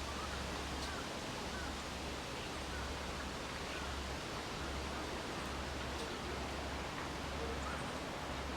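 Outdoor ambience: a steady hiss with a low rumble that comes and goes, and faint short bird chirps now and then.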